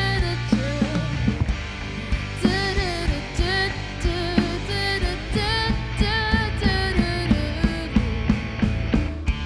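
Live band performing a pop-rock song: a sung melody with vibrato over drums, bass and guitar, with a steady beat.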